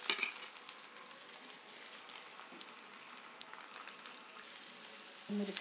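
Chopped tomatoes going into hot oil with fried onion, green chillies and garlic in a kadhai: a brief louder sizzle as they land, then a steady, fainter sizzle with scattered small spits.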